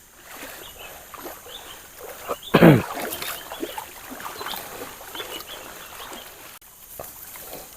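Bamboo raft being worked along a river: water moving and small wooden knocks. About two and a half seconds in, one short, low call falls in pitch, the loudest sound here.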